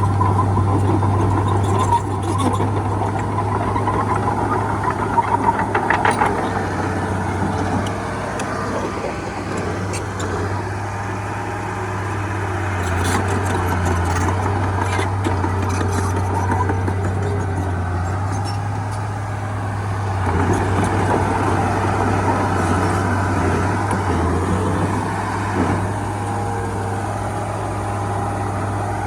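Heavy diesel engine of earthmoving equipment running steadily under varying load, with a few sharp metallic clanks about five to six seconds in.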